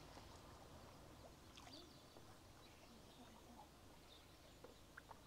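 Near silence: quiet outdoor ambience with faint, scattered bird calls and a few faint clicks near the end.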